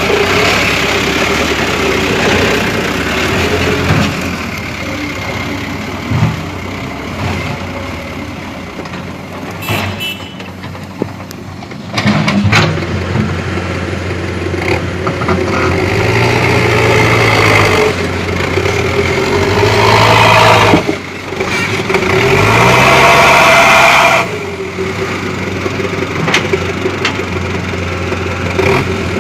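Light-duty diesel dump truck engines running under load in mud, revving up in several louder surges about halfway through and again near the end.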